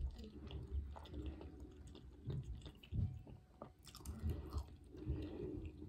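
A person chewing a mouthful of a Popeyes Cajun fried flounder sandwich, close to the microphone, with irregular soft thumps and small mouth clicks.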